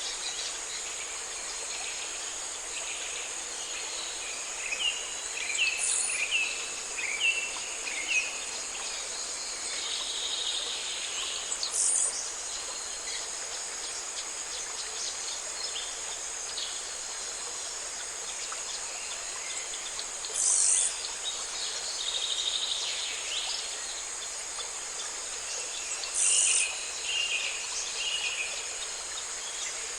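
A steady, high insect chorus with a louder buzz that comes in short bursts four times, every six to eight seconds. Small birds chirp in short runs twice.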